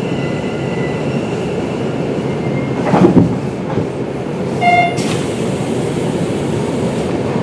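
Hanshin 1000 series electric train with Mitsubishi IGBT-VVVF traction equipment running on the rails: a steady rumble with a faint whine that dies out before three seconds. A louder surge comes about three seconds in, then a short pitched tone just before five seconds and a hiss that starts right after.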